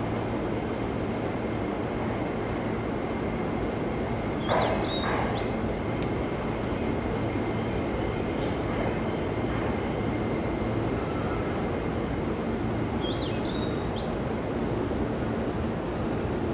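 E261 series electric train rolling slowly into the platform and braking to a stop, with a steady rumble and a faint steady whine throughout. There is a short bump about four seconds in, and brief high squeaks come twice, near that bump and again near the end.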